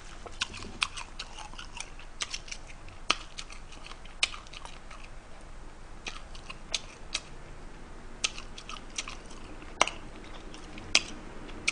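Close-up eating sounds: chewing and crunching through spicy crab, with irregular sharp clicks and cracks a few times a second.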